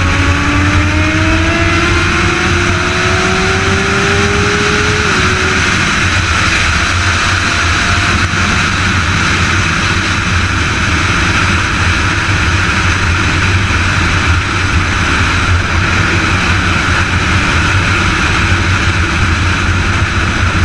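Motorcycle engine pulling and rising in pitch for about five seconds, dropping briefly at a gear change, then running at steady road speed under heavy wind noise on the microphone.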